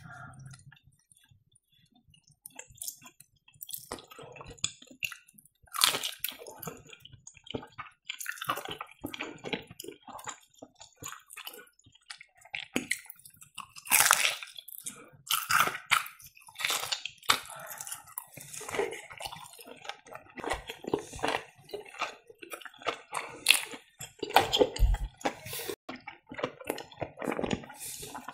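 Close-miked chewing and biting of breaded fried cheese: the crumb crust crunches while the soft melted cheese gives wet squishing and mouth smacks, in many quick, irregular crackles. The chewing starts about two seconds in.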